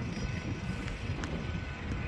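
Low, steady rumble of the Amtrak Empire Builder's bilevel Superliner train pulling away along the tracks, mixed with wind buffeting the microphone.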